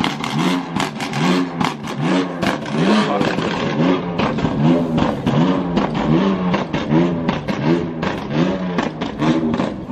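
A car engine being revved over and over in quick throttle blips, each rising and falling in pitch, about one to two a second, with sharp clicks between them.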